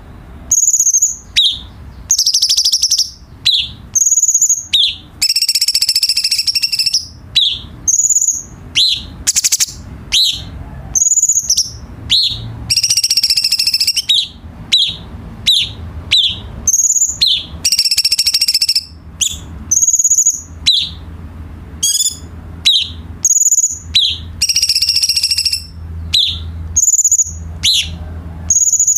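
Cucak cungkok (light-vented bulbul) singing: short, high whistled notes about once a second, broken every five or six seconds by a longer, fuller, harsher phrase. A faint low hum runs underneath.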